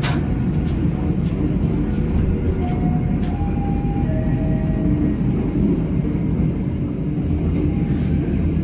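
Argo Wilis executive passenger train pulling away from a station, heard from inside its last carriage: a steady low rumble of wheels on rail, with irregular clicks and knocks.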